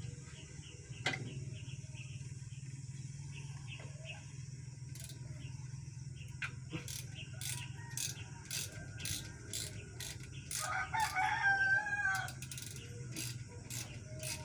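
A rooster crows once, about ten and a half seconds in, lasting under two seconds. Under it runs a steady low hum and a string of evenly spaced clicks, about two a second.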